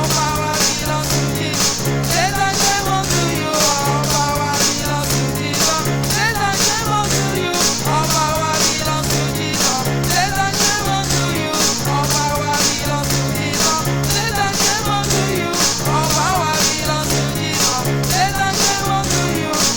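Live church praise band music with a steady beat, regular bass pulses and a high cymbal tick about twice a second, and a wavering melody line played over it.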